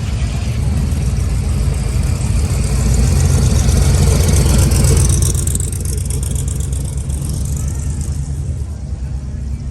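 A car engine running close by, growing louder to a peak about four to five seconds in, then easing off.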